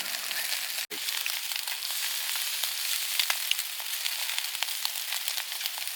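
Food sizzling on a hot pan: a steady hiss with many small spitting pops, cutting out for an instant about a second in.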